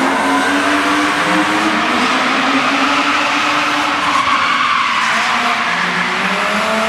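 BMW E36 drift car's engine revving hard, its pitch rising and falling as the car slides through the turns, with tyres squealing around the middle.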